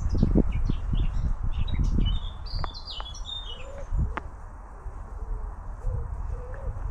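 Small birds singing in quick, high chirps through the first four seconds, over low thumps and rumble from walking in the first two seconds. A lower call repeats several times in the second half.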